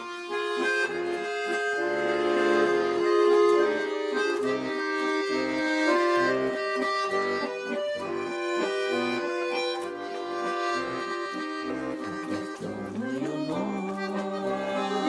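Accordion playing a slow instrumental introduction: held chords under a melody line, with the voices not yet in.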